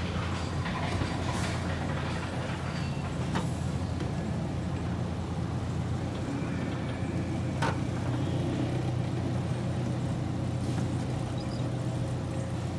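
Miniature park train running steadily, heard from aboard its coaches: a steady low drone with a few sharp clicks.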